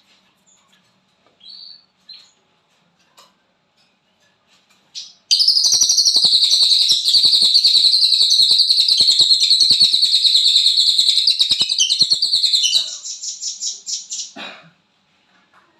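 A cililin songbird giving a few short chirps, then about five seconds in bursting into a loud, very fast rattling trill of the kind bird keepers call 'konslet'. The trill runs for about seven seconds, breaks into separate pulses near the end and stops.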